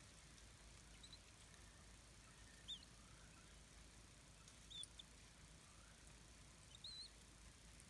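Four faint, short, high squeaky chirps from a bird, spaced one to two seconds apart, over a quiet background hiss.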